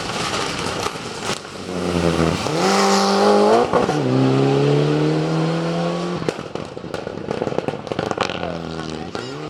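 Rally car engine accelerating hard, rising in pitch, with a quick drop at an upshift about four seconds in and a second rise that stops suddenly about two seconds later. Scattered clicks and crackles follow, then the engine is heard faintly again near the end.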